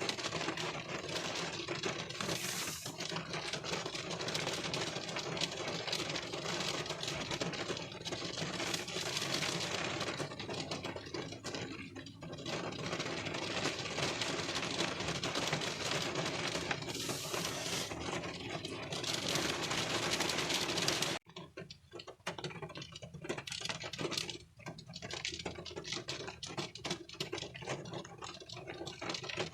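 Rain drops pattering on a car windshield, heard from inside the car: a dense, steady tapping with stretches of brighter hiss. About two-thirds of the way through it cuts out abruptly for a moment and resumes as a lighter, sparser patter.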